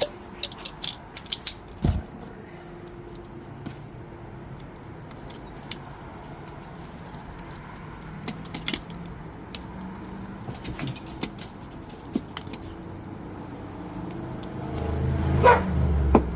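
Scattered metal clicks and clinks of starter-motor parts and hand tools being handled during disassembly. Near the end a louder low rumble comes in.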